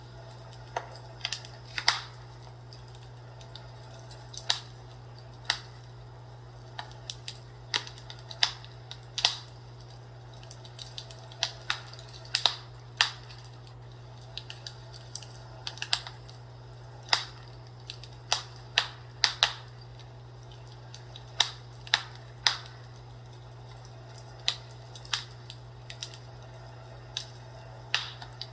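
Wood fire crackling in a fireplace: irregular sharp pops and snaps at uneven intervals, over a steady low hum.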